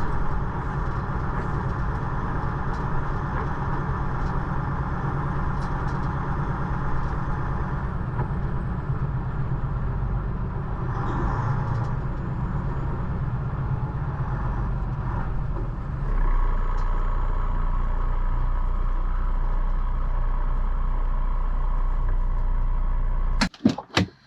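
Semi truck running down the road: steady diesel engine and road noise. It gets louder and deeper about two-thirds of the way through, then cuts off abruptly near the end with a few sharp clicks.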